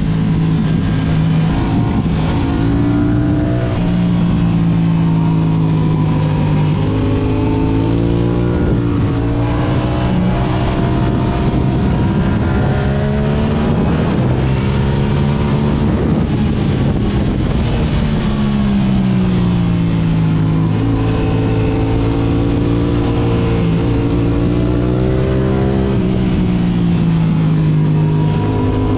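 Yamaha R6's inline-four engine through an Akrapovic exhaust, heard from on board while riding. The engine pitch rises and falls repeatedly as the rider accelerates and eases off.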